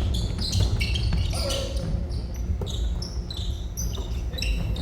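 Basketball bouncing on the court during a game, among many short high squeaks of players' sneakers on the gym floor.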